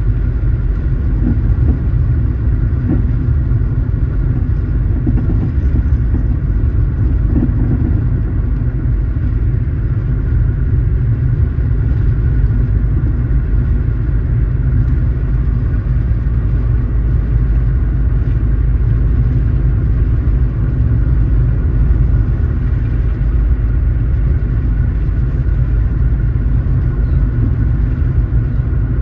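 A car driving at steady speed: an even, unbroken low rumble of engine and road noise.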